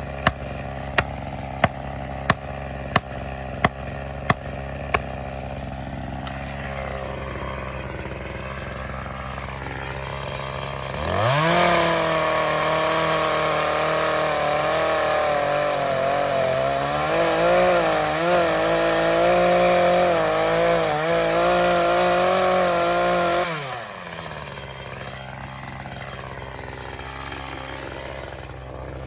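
Chainsaw idling under a run of sharp, evenly spaced knocks, about one and a half a second, that stop about five seconds in. About eleven seconds in the saw revs up and runs at full throttle, cutting into the dead pine trunk for about twelve seconds, then drops back to idle.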